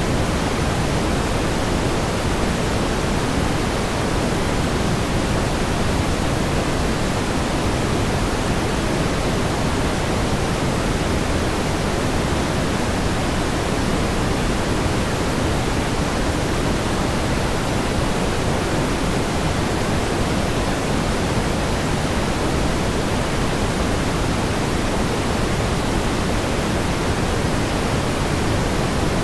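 Pink noise: a steady, even hiss weighted toward the low end, unchanging in level.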